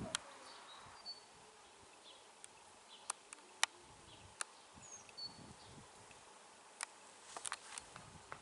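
Bees buzzing faintly around apple blossoms, their hum coming and going as they fly past, with a few short, high bird chirps and several sharp clicks.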